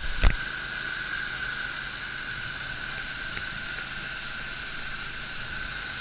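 A single sharp knock right at the start, then a steady hiss with a fixed whistling tone in it.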